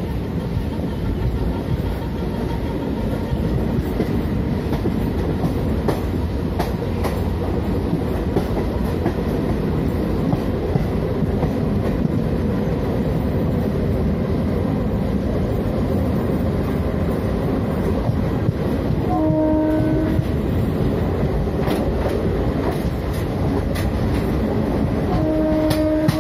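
Express passenger coaches running at speed, heard from aboard the train: a steady rumble with sharp wheel clicks over the rail joints. The WAP-4 electric locomotive's horn sounds briefly about two-thirds of the way through and again near the end.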